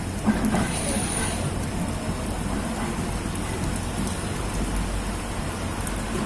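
Rain falling steadily, a continuous hiss, with a brief louder bump about a third of a second in.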